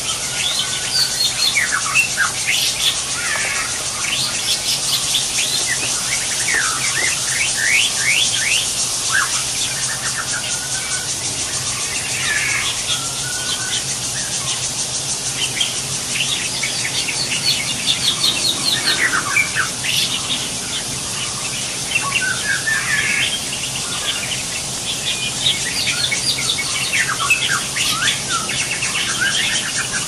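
Wild birds chirping and calling, with many short notes and quick runs of chirps over a steady high hiss.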